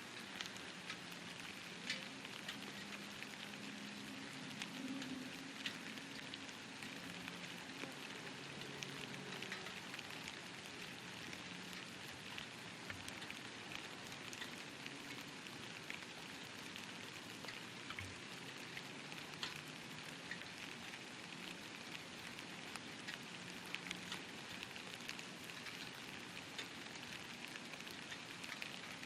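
Steady light rain falling, with scattered individual drops ticking on a surface close by.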